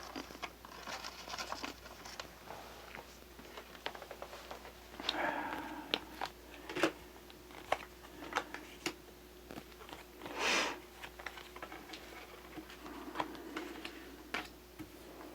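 Tarot cards being handled and laid out on a table: scattered light taps and clicks with rustling and sliding of the cards, and a short swish about ten seconds in.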